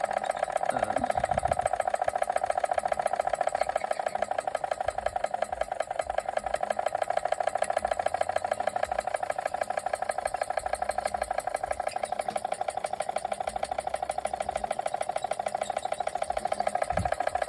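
Machinator Steamfire toy oscillating steam engine running steadily under steam, its exhaust chuffing in a rapid, even beat.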